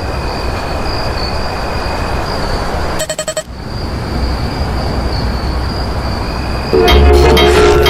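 Steady vehicle noise with a short, rapid stutter of horn toots about three seconds in. Loud music begins near the end.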